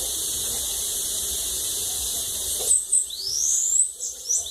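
A steady high hiss, then about two-thirds of the way in a sibite songbird sings: short, very high thin notes and a quick rising sweep, still going at the end.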